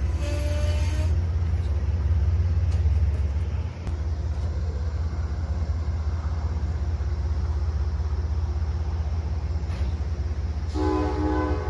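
Train running past with a steady, loud low rumble. Short horn-like tones sound just after the start, and a chord of pitched tones begins near the end.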